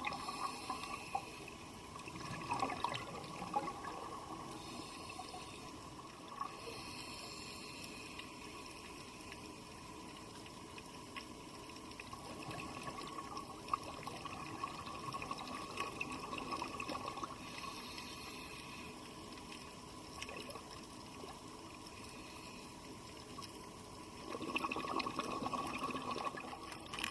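Underwater recording of steady water noise, with bubbling from a scuba diver's exhaled breath swelling up several times.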